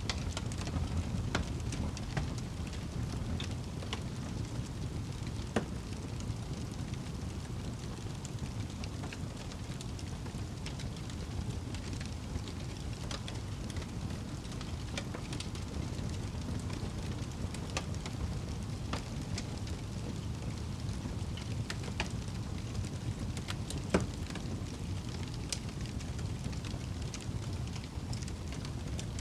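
Wood fire burning in a fireplace: a steady low rumble of flames with scattered sharp crackles and pops, two of them standing out louder, one about six seconds in and the loudest a few seconds before the end.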